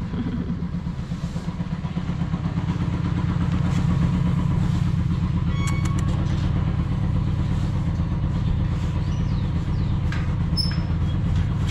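Suzuki Volty 250 single-cylinder motorcycle engine idling steadily, with a brief click about six seconds in.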